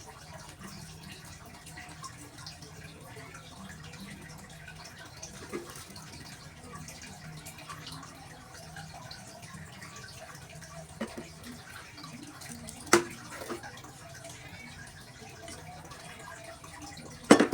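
Someone eating: quiet chewing and wet mouth sounds over a steady low hum, with two sharp clicks, one about two-thirds of the way through and one near the end.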